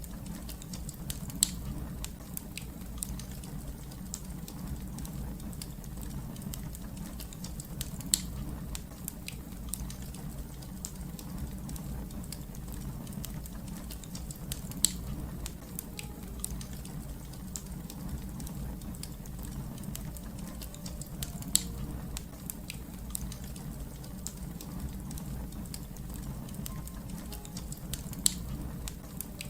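Fire crackling: a steady low rumble of burning with many small crackles, and five louder pops at even spacing, about one every seven seconds.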